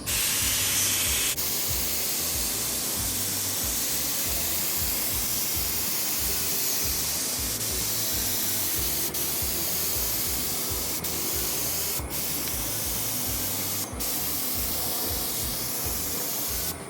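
HVLP paint spray gun running at about 20 psi, spraying paint in a steady hiss of air and atomised paint. It dips briefly about a second in and again near the end as the trigger eases.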